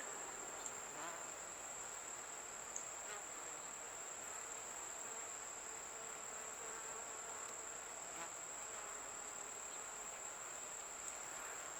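Honeybees buzzing steadily around an open hive, a faint even hum, with a steady high-pitched whine alongside.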